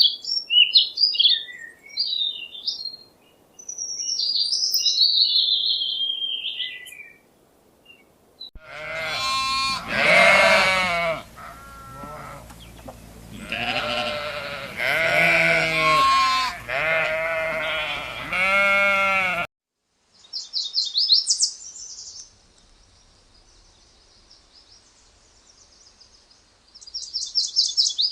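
A sequence of animal calls: high chirping bird song, then from about nine seconds in a series of loud bleats in repeated rising-and-falling calls lasting about ten seconds, then high, rapid chirping trills.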